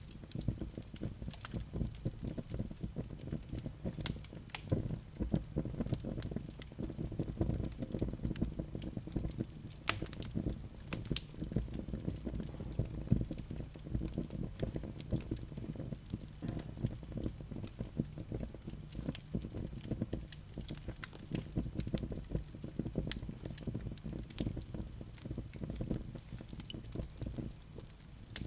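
Wood fire burning in a fireplace: a steady low rumble of flames with dense crackling and scattered sharper pops.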